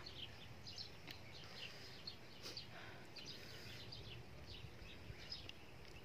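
Faint birdsong: many short, high chirps from small birds, scattered throughout over low outdoor background noise.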